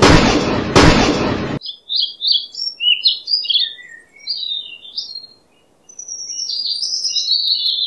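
Loud truck noise with a sharp knock about a second in, cut off suddenly; then birds chirping in quick, repeated phrases, with a short pause about halfway.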